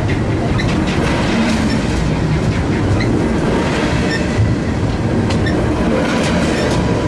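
Freight train cars rolling past at close range: a steady heavy rumble, with the wheels clicking over rail joints now and then, several clicks close together near the end.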